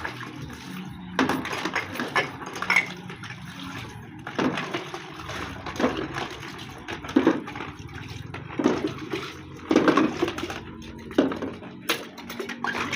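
Cooking pots (sufurias) being washed by hand: water splashing and pouring, with pots knocking against each other, in irregular bursts.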